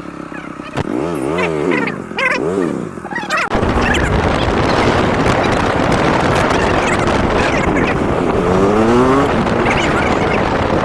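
Motorcycle engine revving up and down a few times, then from about three and a half seconds a loud, steady rush of wind on the microphone over the running engine as the bike rides. The engine pitch rises briefly near the end.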